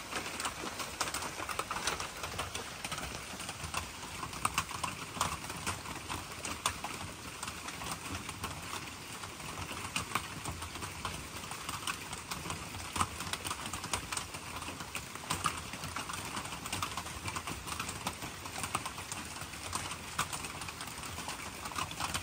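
Light rain falling, with irregular drips tapping throughout.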